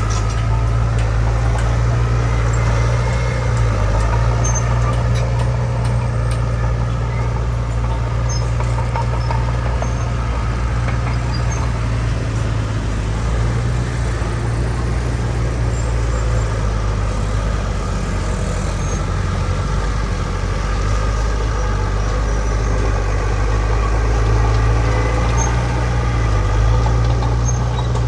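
Diesel engine of heavy earthmoving machinery running steadily as a deep drone, with only slight changes in load.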